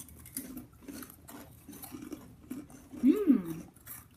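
Crunchy Cheetos being bitten and chewed: a string of crisp crunching clicks. About three seconds in, a short voiced sound rises and falls in pitch.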